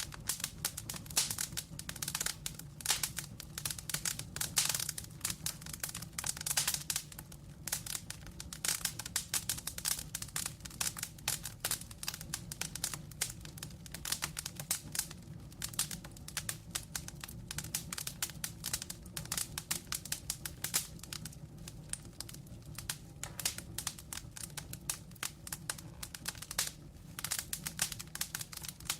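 Wood fire burning with dense, irregular crackling and popping over a steady low rumble of flame.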